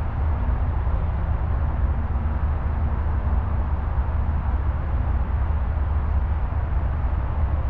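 CSX freight train rolling slowly past, a steady low rumble with a faint engine hum.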